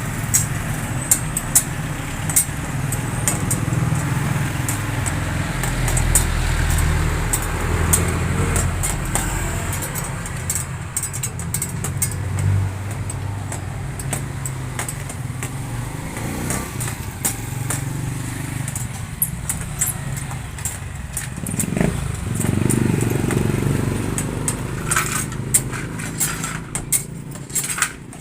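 Motorcycle engine running, its revs swelling and easing a few times, with sharp ticks over the engine sound.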